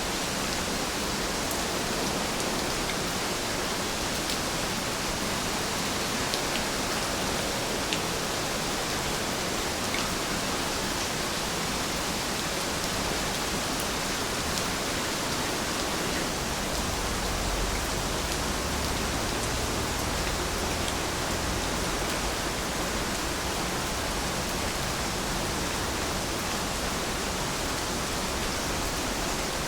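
Steady rain falling: an even hiss with a few faint sharp drip ticks. A low rumble comes in a little past halfway and lasts several seconds.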